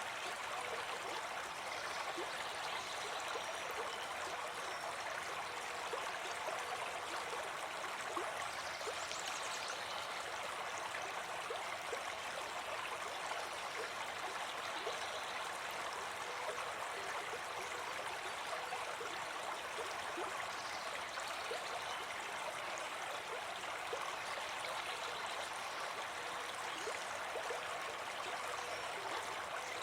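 Brook babbling: a steady, even rush of running water with many small splashes and trickles.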